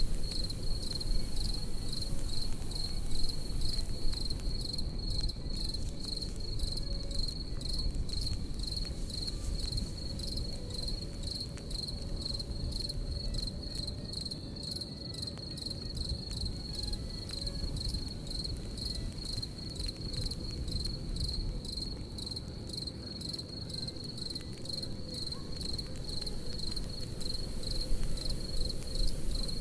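Crickets chirping in a fast, unbroken trill over a crackling campfire. The fire's crackles and low rumble are a little louder near the start and near the end.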